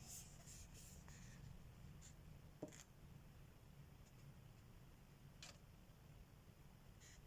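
Faint, occasional strokes of a colored pencil on paper, with a small tap about two and a half seconds in.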